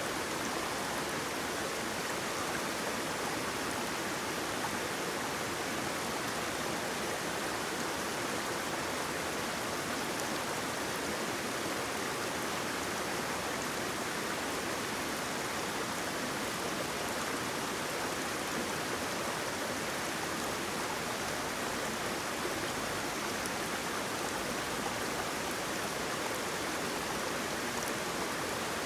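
Waterfall: water rushing steadily, an even, unbroken hiss with no distinct splashes or changes.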